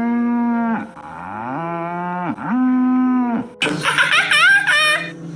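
A cow mooing three times, each call held for about a second, the middle one lower. About three and a half seconds in, a different animal's shorter calls begin, rising and falling in pitch.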